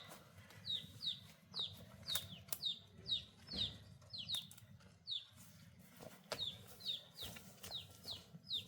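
Chicks peeping: a steady string of short, high chirps falling in pitch, about two a second, with a few sharp knocks in between.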